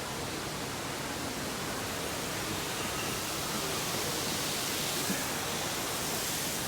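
Steady rushing hiss with no distinct events, slightly brighter in the second half.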